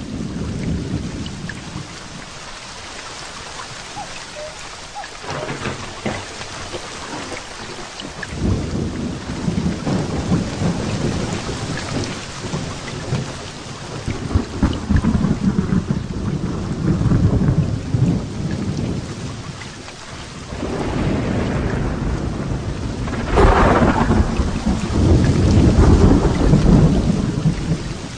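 Heavy rain falling steadily, with thunder rumbling in long rolling waves over it. The loudest peal comes a little after twenty seconds in.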